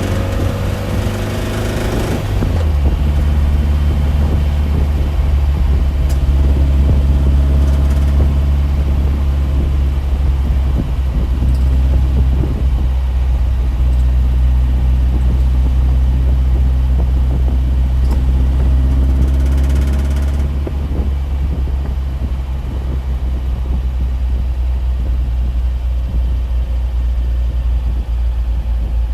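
A steady, loud low drone of a running motor vehicle, with its higher tones shifting in pitch about two seconds in.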